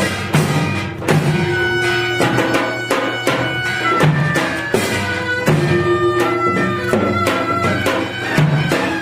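Korean traditional music for the Jindo drum dance: held notes on a wind instrument, with frequent drum strokes, about one to two a second.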